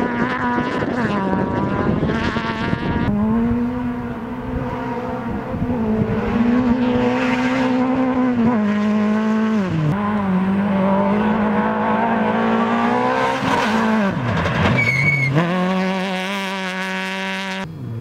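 Rally car engine held at high revs, its note dropping sharply and climbing again three times: about halfway through, around three-quarters of the way in, and at the end, as the driver lifts and changes gear. A brief tire squeal comes with the second drop.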